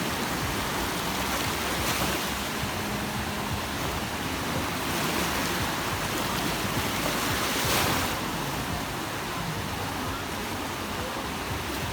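Sea waves breaking and washing up the beach in a steady surf, swelling louder about three times.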